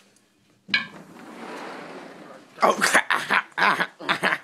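A short click, then about two seconds of steady hiss, then a person laughing in short loud bursts.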